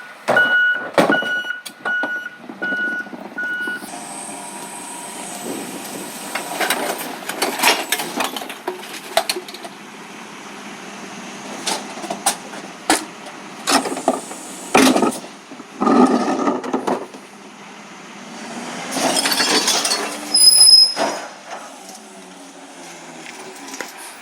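Recycling truck's reversing beeper, beeping about one and a half times a second, stops a few seconds in. It is followed by a run of clanks and clatters as the truck handles recyclables, with a burst of hiss near the end.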